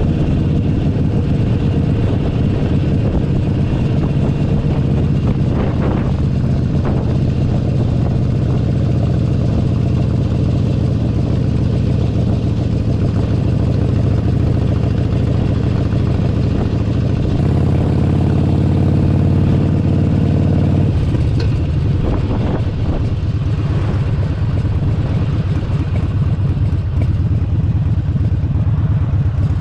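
Harley-Davidson Forty-Eight Sportster 1200's air-cooled V-twin running steadily under way, heard from the saddle. The engine note changes about 17 seconds in and again about 21 seconds in.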